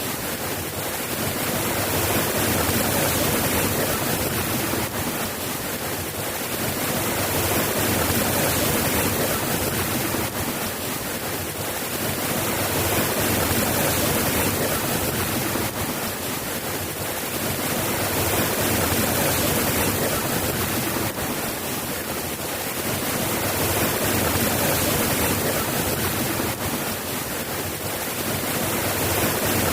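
Steady rain falling, an even hiss that swells and eases gently every five or six seconds.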